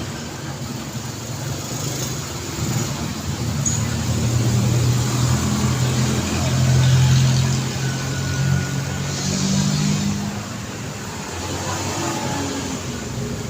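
Road traffic with vehicles passing. A car engine hum builds to its loudest about halfway through, then fades away.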